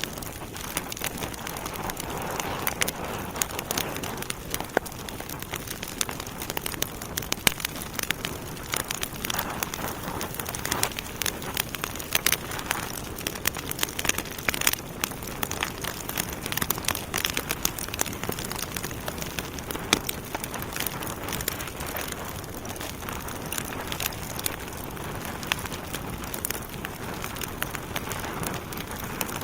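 Wood fire in a fireplace crackling, with a steady hiss of burning logs and many sharp irregular pops and snaps.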